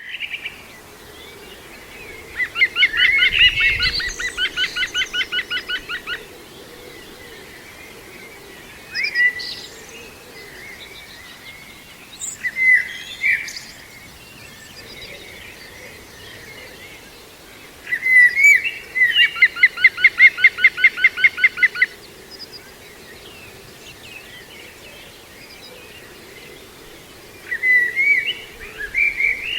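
Green woodpecker giving its laughing yaffle call, a rapid series of repeated notes, twice, with a few shorter calls between.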